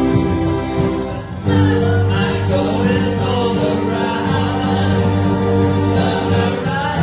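A small group of friends playing a song together, with guitar and singing. The chord changes about a second and a half in.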